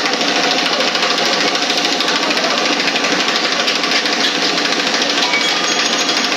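A machine running steadily with a fast, even rattle, its loudness unchanging.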